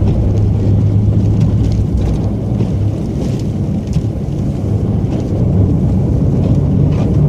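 Snow-plow truck's engine running steadily with road noise, a continuous low drone.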